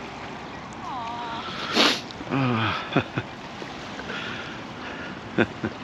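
Ocean surf washing on the beach with wind, broken by a few short sounds: clicks, a brief hiss and a short pitched call.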